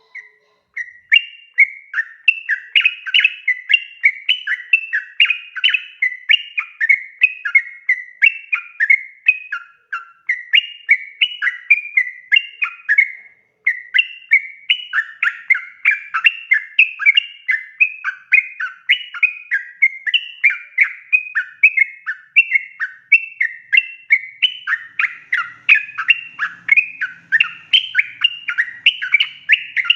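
Yellow-vented bulbul (trucukan) singing a long, unbroken run of rapid chirping notes, pausing only briefly twice, about ten and thirteen seconds in.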